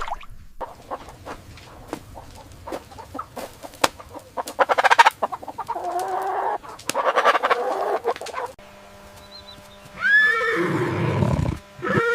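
A series of separate farm-animal calls, several in a row with short breaks between them, after a stretch of scattered clicks and knocks.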